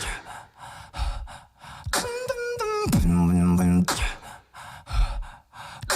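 Solo beatboxing: sharp clicks and short noisy hits, then about two seconds in a held buzzing bass with a higher pitched note above it that slides down and stops near four seconds, followed by more scattered clicks.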